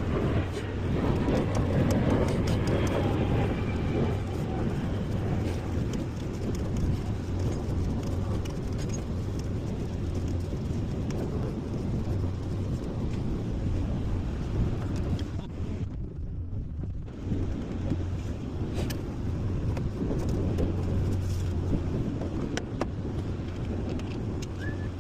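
A vehicle engine running steadily with a constant low hum, the sound briefly going muffled about sixteen seconds in.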